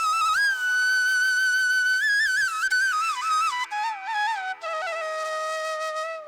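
Background music: a solo flute melody with ornamented slides over a steady drone, holding a long high note, then stepping down to end on a long low note.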